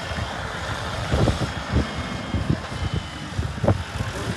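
Wind buffeting the microphone in irregular low gusts, over a vehicle engine running steadily.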